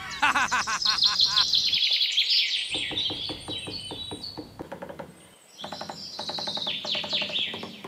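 Birds chirping: quick, repeated falling chirps, thickest in the first two seconds and again near the end.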